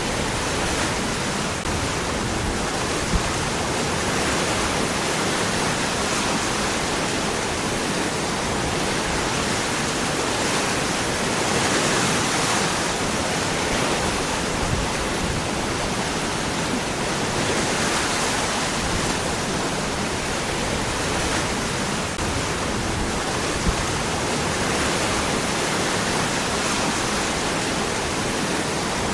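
Waterfall: water pouring and splashing over rocks in a steady, dense rush.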